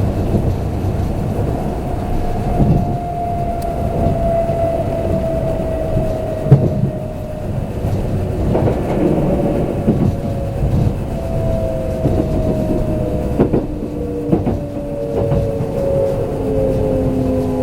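Kintetsu limited express electric train running, heard from inside the carriage. Several motor whine tones slowly fall in pitch as it slows, over a steady rumble with wheels clicking across rail joints and a sharp knock about six and a half seconds in.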